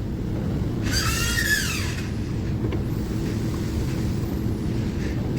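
Steady low rumble of a running motor vehicle, with one high squeal lasting about a second whose pitch bends, about a second in.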